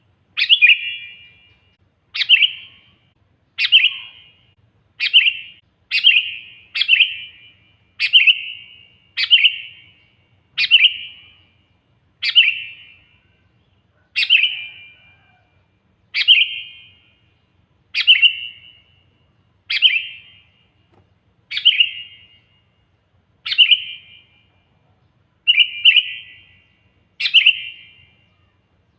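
Sooty-headed bulbul (kutilang) calling loudly and persistently: a short, sharp, bubbling phrase repeated about every one and a half seconds.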